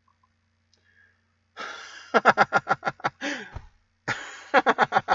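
Two loud bursts of breathy, rapidly pulsed exhalations from a man, each a quick run of short puffs with a falling voiced tail, after a second and a half of near silence.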